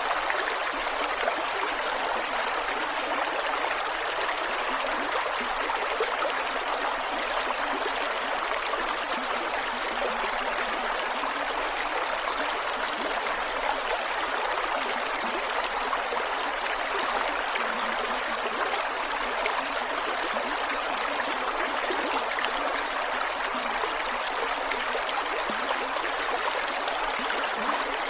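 Creek water flowing and gurgling over rocks, a steady, even rush with no pauses.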